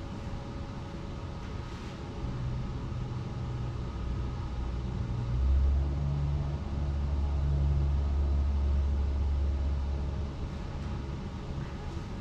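Low rumble that swells about five seconds in and eases off again around ten seconds.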